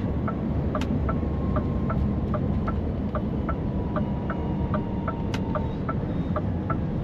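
Truck cab: the diesel engine runs at idle as a steady low rumble, while the indicator or hazard flasher ticks evenly at about three clicks a second.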